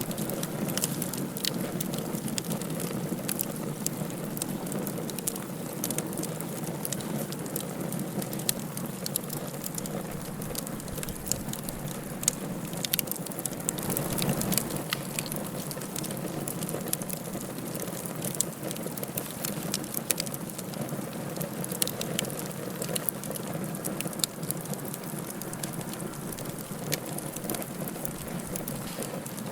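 Wood fire burning in a fireplace: a steady low rush of flame with frequent sharp crackles and pops scattered throughout.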